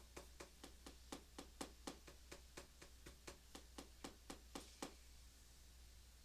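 Faint, quick pencil strokes on paper, about four a second in an even rhythm, as in hatching or shading, stopping about five seconds in.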